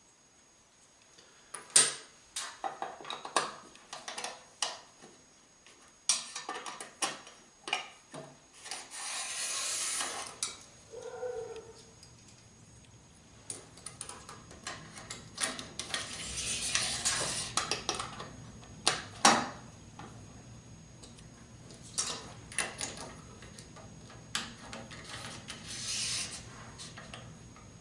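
Hand-work on a miter gauge stop fence: scattered clicks and knocks of small parts, with several stretches of rubbing or rasping, as a binding flip stop is loosened until it moves freely. A faint low steady hum comes in about a third of the way through.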